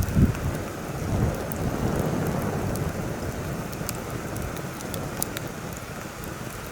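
Heavy wind gusting against the microphone with low rumbling buffets, strongest just after the start, over a campfire crackling with scattered sharp pops.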